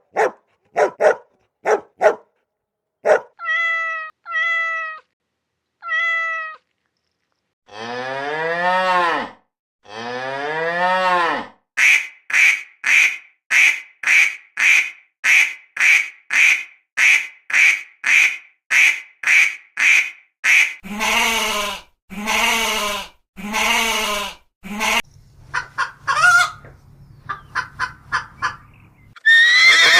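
A series of real animal calls, one kind after another: short dog barks, then a few cat meows, then two long cow moos, followed by a fast run of repeated high calls and more animal cries.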